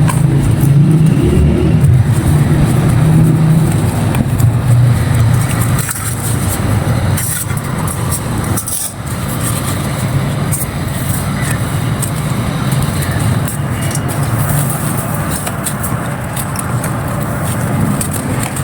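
A motor vehicle's engine running close by, loudest in the first few seconds and then easing off, over a scatter of crisp crackles from dry, dusty clay being crumbled.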